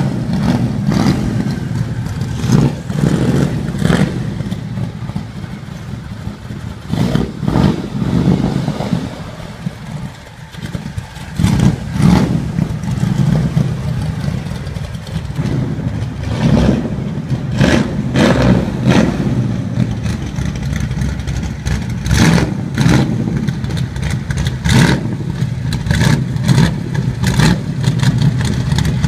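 1968 Camaro SS's 350 small-block V8 running through its exhaust, a steady low idle broken by repeated short throttle blips.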